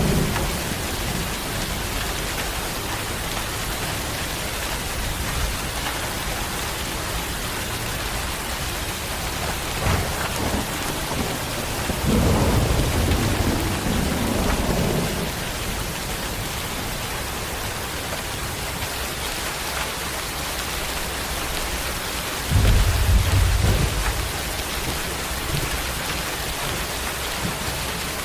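Steady heavy rain falling, with rumbles of thunder about ten seconds in, for a few seconds around the middle, and a louder low rumble about three quarters of the way through.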